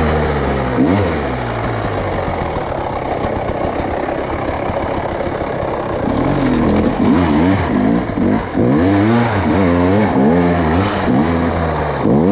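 Off-road vehicle engine being ridden on the throttle, revving up and down. Its pitch swings in repeated quick surges through the second half.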